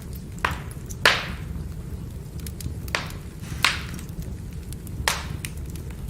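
Burning firewood crackling, with about five sharp pops (the loudest about a second in) and small ticks between them, over a steady low rumble.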